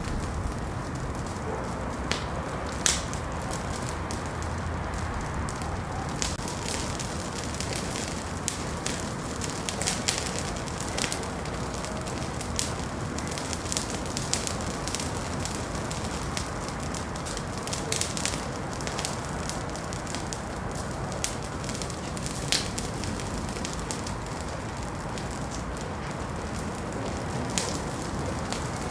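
Wood fire burning in a fireplace, a steady hiss with irregular crackles and sharp pops scattered throughout.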